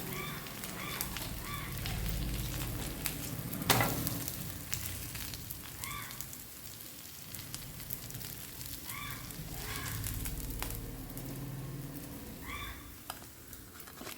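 Ghee dosa sizzling on a hot tawa over a lowered flame, with one sharp knock a little under four seconds in.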